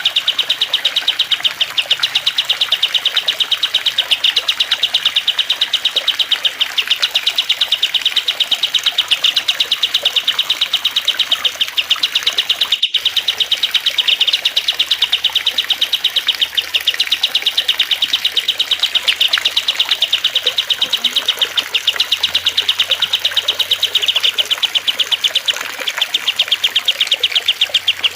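Continuous rapid, high-pitched chirping and twittering of small songbirds, a mixed track of cililin, kastem and lovebird song, over a steady trickle of water. The sound drops out briefly about halfway through.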